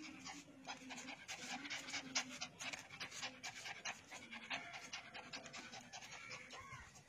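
Fast, faint panting: short, quick breaths in and out, several a second.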